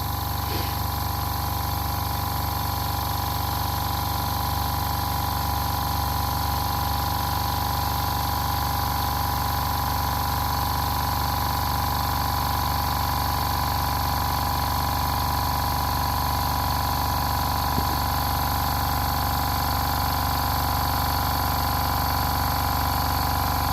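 Small tank-mounted airbrush compressor running steadily, a constant hum with a steady tone, pumping its air tank up towards its cut-out pressure.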